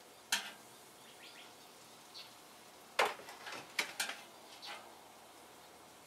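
A few sharp clicks and scrapes of metal cooking utensils against pans and grill, about four in all, the loudest about three seconds in, with faint bird chirps in the quiet between.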